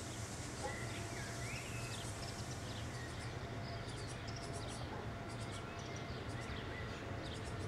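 Small birds chirping and many short high clicks over a steady low hum.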